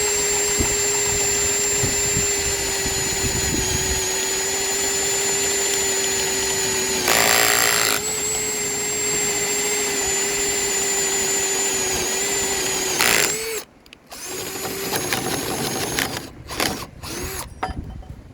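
Bauer 20-volt cordless drill running at high speed with a spade bit boring into wood: a steady motor whine, with a louder, rougher stretch about seven seconds in. The motor stops suddenly about thirteen seconds in, followed by a few brief spurts of the motor and knocks.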